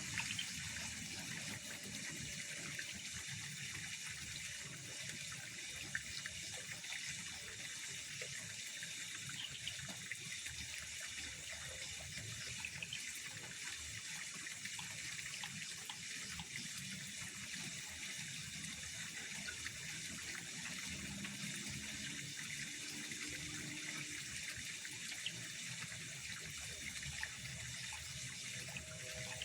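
Pond water trickling steadily, with a few faint clicks.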